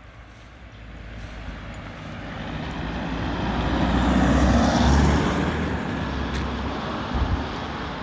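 A vehicle passing by: its noise swells to a peak about four to five seconds in, then fades.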